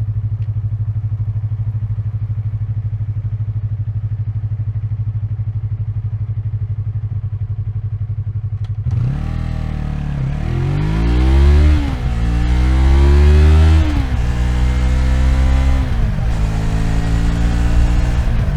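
Yamaha MT-03's 321 cc parallel-twin engine idling steadily for about nine seconds. It then pulls away, the revs climbing and dropping several times as it shifts up through the gears.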